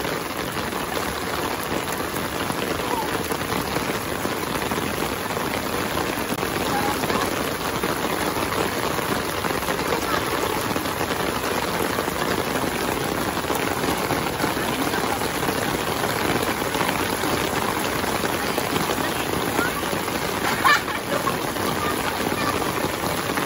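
Steady rain falling on a flat, wet concrete rooftop, with one short sharp knock near the end.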